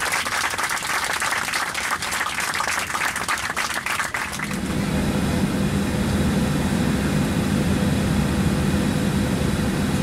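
A crowd applauding for about four seconds, then an abrupt switch to the steady low drone of a parked Boeing 737 airliner's cabin, with a hum held at a constant pitch.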